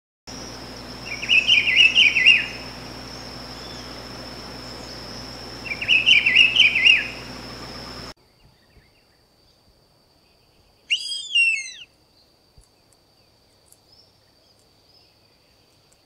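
Rufous-browed peppershrike singing two rich, warbled whistled phrases a few seconds apart, over a steady high tone in the background. Then, in a different recording, a gray hawk gives one call of downward-gliding whistles, about halfway through.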